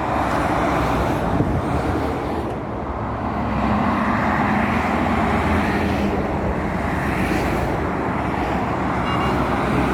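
Road traffic with lorries passing close by: a steady rush of tyre and engine noise, with a heavy engine's low drone swelling in the middle.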